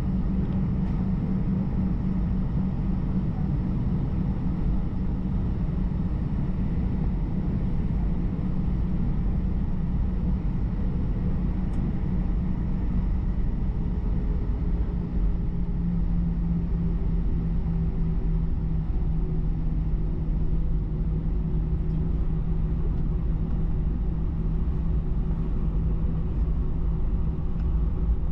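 Airbus A320's CFM56 engines running at low power before takeoff, heard inside the cabin as a steady low rumble with a faint hum. The hum's pitch shifts slightly about halfway through.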